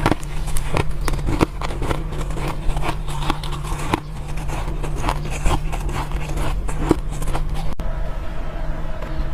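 Close-up crunching and chewing of soft, powdery ice: many irregular crisp crunches over a steady low hum. Near the end it cuts abruptly to a steadier hum with a faint held tone.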